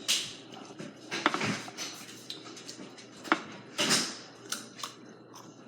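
Kitchen handling sounds: scattered clinks and knocks of dishes and utensils, with a couple of short scraping or rustling bursts.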